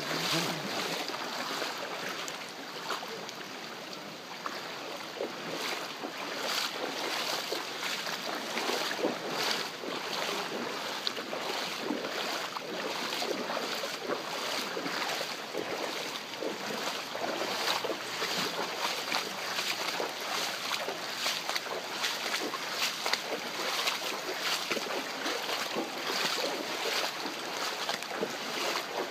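Torrential cloudburst rain over a flooded street: a steady hiss of rain and moving floodwater, dotted with many sharp drop impacts.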